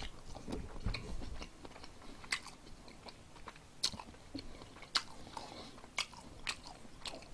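A person chewing food close to the microphone, with sharp, irregular wet mouth clicks and crunches about once a second.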